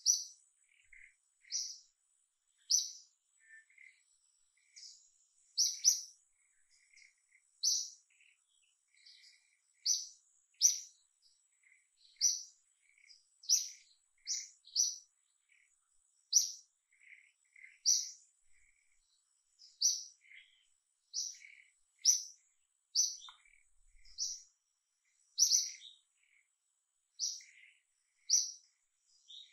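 Small birds chirping: short, high chirps about once every second or so, with fainter, lower chirps between them and a faint steady high whine behind them.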